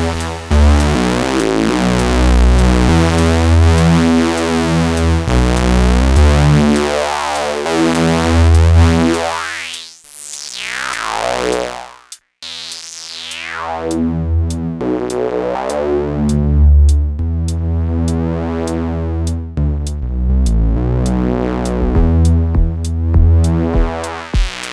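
A sequenced synth bass pattern played through the Swenigiser Proto VCF/A Eurorack filter, its input driven hot for a gritty sound. Partway through, the filter's resonant peak sweeps down, the sound briefly almost cuts out, and it sweeps up and back down again before the pattern returns with short, regular clicking hits.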